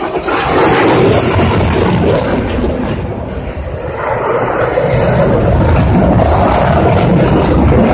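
Loud, steady jet noise from an F-16C Fighting Falcon flying a display pass. It starts abruptly, eases a little around three seconds in, then builds again.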